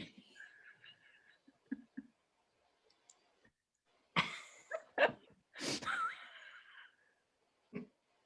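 A person's breathy, non-speech vocal sounds, short exhaled bursts like stifled laughs or sighs, with a sharp one about four seconds in and a brief wavering voiced sound just after.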